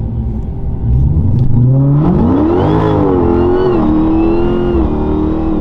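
Twin-turbocharged engine revving: the pitch climbs about a second in, holds high with a faint high whine over it, then drops back near the end.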